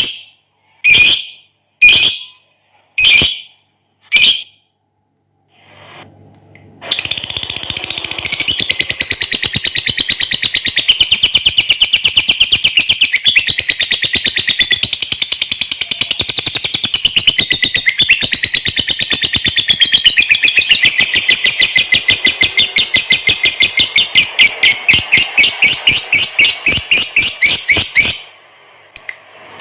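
Lovebird calling: five sharp single calls about a second apart, then after a short pause a long, very fast, high-pitched chattering trill lasting about twenty seconds, which breaks up into a few separate notes near the end. This unbroken chatter is the long 'ngekek' that bird keepers prize as the sign of a lovebird in full song (gacor).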